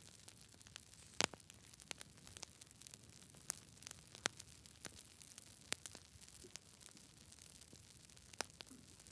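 Wood fire crackling: a soft steady hiss with irregular sharp pops, the loudest about a second in.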